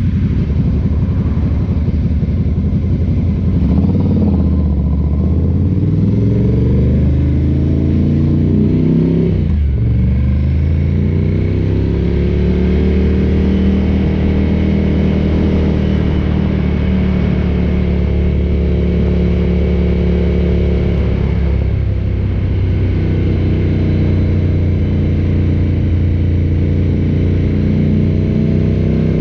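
Ducati cafe racer motorcycle engine running under way, its pitch climbing as it accelerates from about four seconds in, dropping sharply at a gear change near ten seconds in and climbing again. It then settles to a steady cruise, with a slight dip and pickup a little past twenty seconds.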